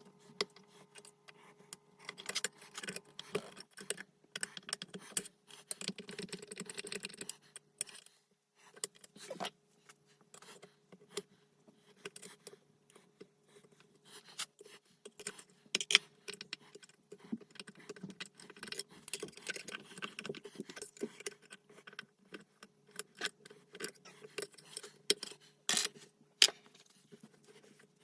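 Metal parts and tools clinking and knocking irregularly while a transfer case is worked on by hand, with many sharp clicks and a few louder knocks, the loudest about 16 s in.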